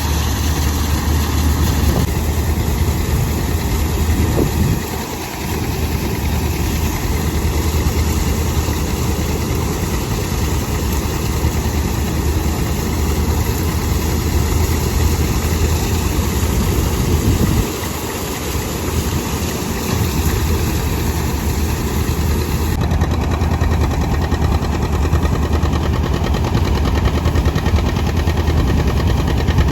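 John Deere 730 diesel tractor's two-cylinder engine running steadily under power. Its level dips briefly twice, about five seconds in and again near eighteen seconds.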